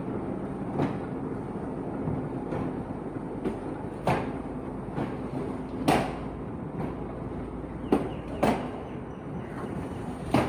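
Passenger carriages of a diesel-hauled train rolling slowly through a station, a steady rumble broken by about six sharp, irregularly spaced clanks from the wheels and couplings.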